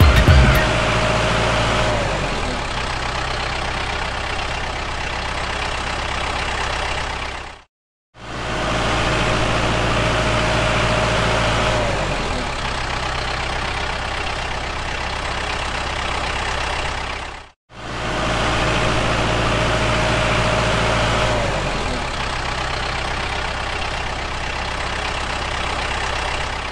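An engine running steadily, with a faint whine that slides down about two seconds into each stretch. The same stretch of sound plays three times, broken twice by a brief silence.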